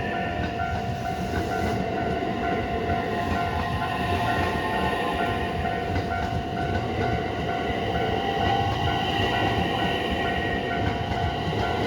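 Electric commuter train running on the line: a steady rumble of wheels on rails under a held whine. Over it a level-crossing warning bell rings in a steady repeating beat.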